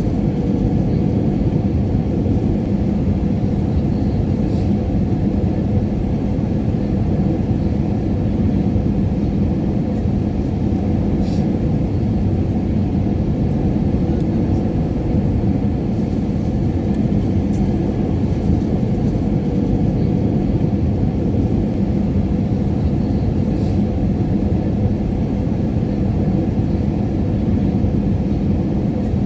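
Airliner cabin noise in flight: a steady, even low rumble with a constant hum underneath.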